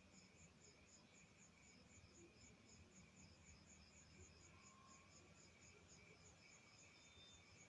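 Near silence with faint, steady insect chirping, repeating about six times a second.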